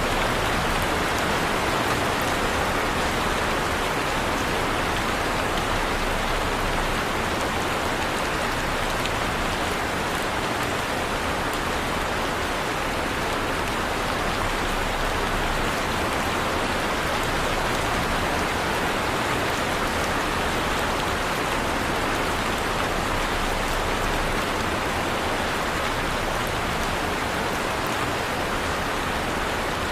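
Heavy rain falling steadily, a dense even hiss of drops on surfaces with no let-up or change in strength.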